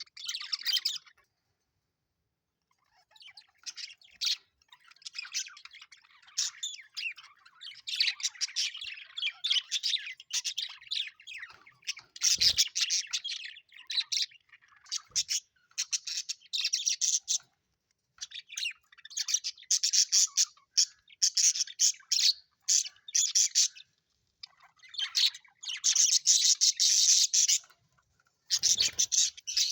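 Budgerigars chattering and chirping in bouts with short pauses between them, with a few brief low thumps.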